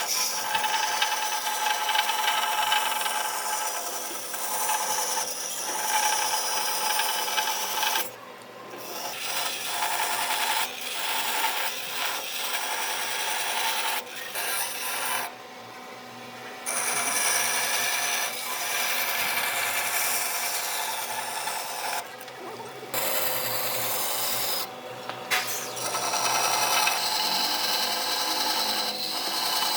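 Power tool abrading wood: a steady rasping grind over a faint motor whine, cut off abruptly and resuming several times.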